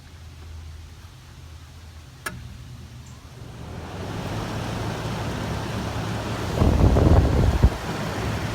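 A control clicks about two seconds in, then the blower fan of a 1984 Hotpoint (GE) 8400 BTU window air conditioner comes up to speed and runs with a steady rush of air. Around seven seconds in a louder low rumble of air buffets the microphone for about a second.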